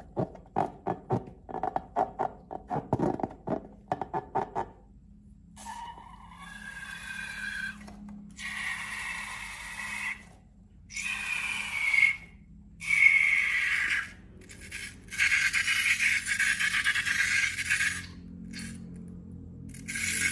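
Slime and balloon handling close to the mic: a quick run of sticky clicks and pops for about five seconds, then several longer squelchy, squeaky stretches with short pauses between them.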